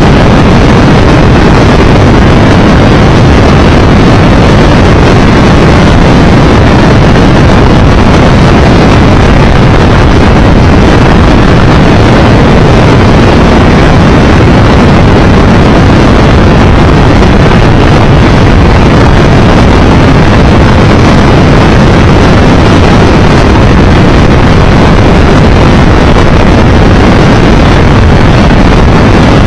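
Steady, loud wind rush and road noise on a moving Triumph Tiger Explorer 1200 motorcycle, with the wind on the microphone drowning out any distinct engine note.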